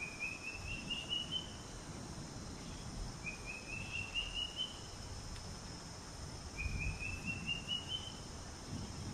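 A bird calling: a quick run of about seven short notes climbing in pitch, repeated three times about three seconds apart, over a steady hiss and intermittent low rumbling.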